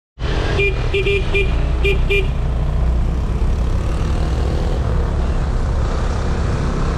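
A vehicle horn beeps about six short times in the first two seconds, over the steady low rumble of riding a motor scooter on a rough road, engine and wind on the microphone.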